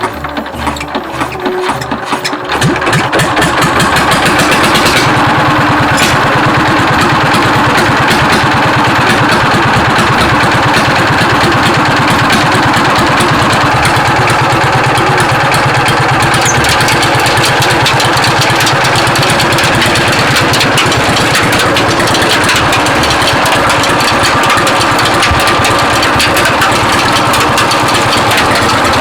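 An engine running, building up over the first few seconds and then holding a steady, fast beat.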